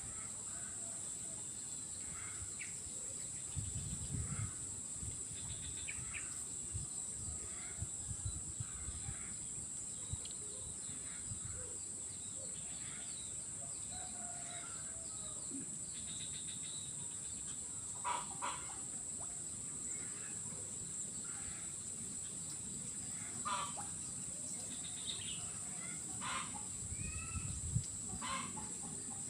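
Steady high-pitched drone of insects, with scattered bird calls over it; the loudest calls come about 18 s in and several times near the end. Low rumbles run under it for a few seconds early on and again near the end.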